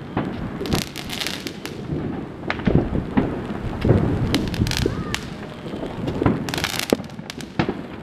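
Fireworks going off all around: repeated sharp bangs and several spells of rapid crackling, over a steady hiss of rain.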